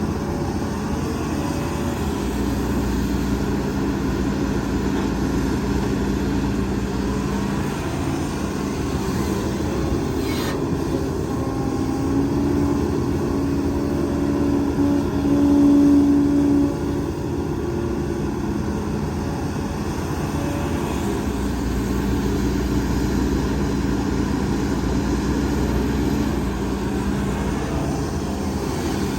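Heavy diesel earthmoving machinery, excavator and dump truck engines, running steadily. One engine gets louder and higher for a few seconds past the middle, and there is a single sharp click about ten seconds in.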